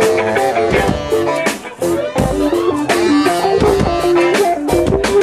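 Live rock band playing an instrumental lead-in: a guitar riff of stepping notes over a steady drum beat.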